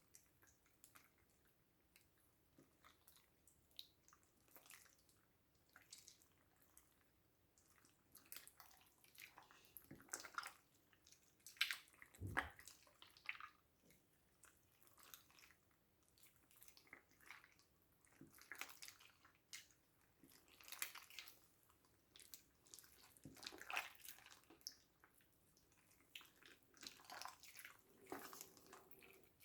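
Slime being worked and squished by hand: irregular soft, wet clicks, pops and squelches, a few louder ones now and then.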